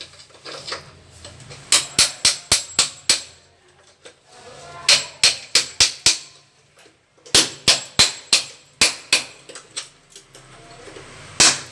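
Hammer blows chipping hardened mortar off a pipe: three quick runs of about five to seven sharp strikes each, with a single strike near the end.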